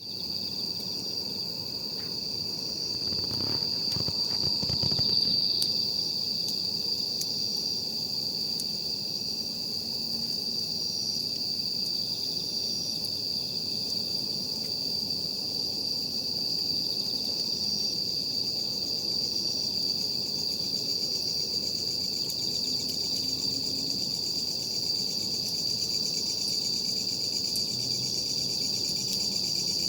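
Night insects trilling in one steady, high, unbroken note, with a fainter chirp pulsing above it about every second and a half. A few faint crackles of a wood campfire come through.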